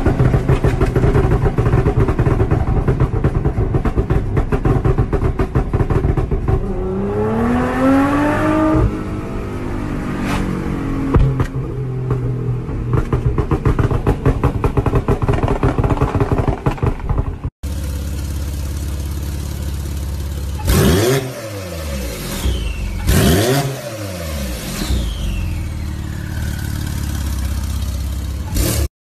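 High-performance car engines revving and accelerating, heard from inside the cabin, the engine pitch climbing hard about seven to nine seconds in. After an abrupt cut, a car engine runs with a steady low note and is blipped sharply twice.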